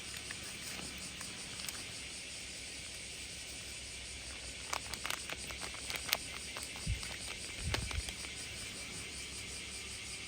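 Outdoor ambience with a steady high-pitched hiss, broken about halfway through by a quick run of clicks and rustles and two low bumps.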